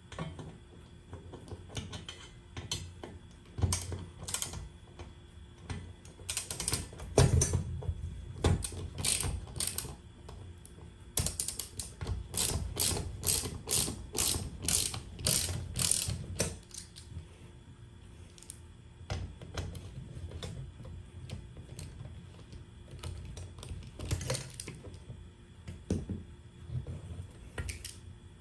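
Ratchet wrench clicking in short bursts of strokes, with a steadier run of quick clicks, about two or three a second, in the middle.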